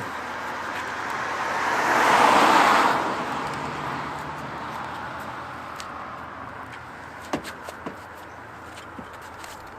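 A car passing by, its road noise swelling to a peak about two seconds in and then fading away, followed by a few light clicks near the end.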